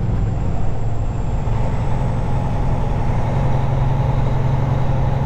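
Semi truck's diesel engine and road noise heard from inside the cab while driving: a steady low drone whose pitch rises slightly about three seconds in.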